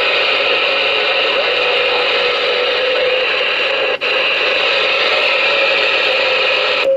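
Ranger RCI-2970N4 radio's receiver playing a steady hiss of static through its speaker, with a faint wavering whistle under it. The hiss drops out for an instant about four seconds in and cuts off suddenly just before the end.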